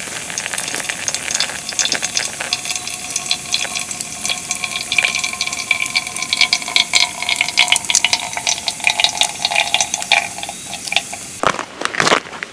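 Water heating on a stove, hissing and simmering with crackling ticks and a few faint steady singing tones. It cuts off abruptly near the end.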